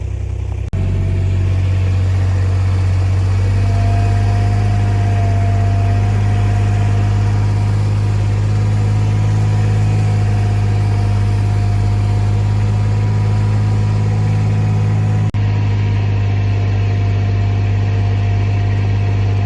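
Vehicle engine running steadily, a loud, even low hum that barely changes in pitch, with a sudden jump in the sound about a second in and another near the end.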